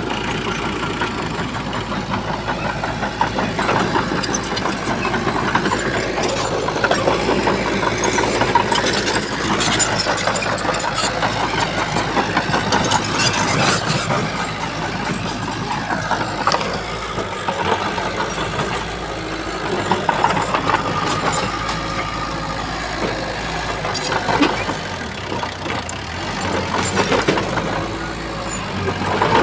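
Diesel engine of a Shantui bulldozer working, its sound swelling and easing, with scattered knocks and rattles.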